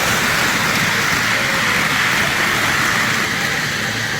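Lionel model train running on the layout's track: a steady whirring, rattling rumble that swells in the middle and eases toward the end.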